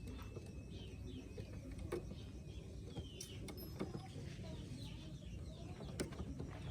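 Pigeons and birds moving about: scattered sharp taps and clicks over a low steady rumble, with faint short high chirps.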